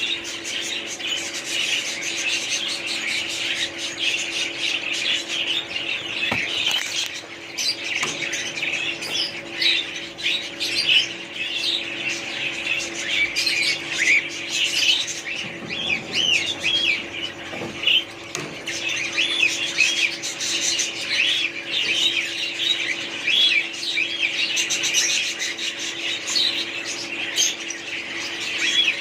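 A group of small birds chirping and squawking, many calls overlapping in a continuous chatter, over a steady low hum.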